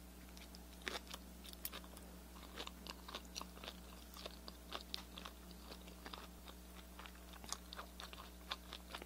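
Faint, irregular crunching clicks, several a second, of someone chewing crisp-fried, sauce-glazed shrimp.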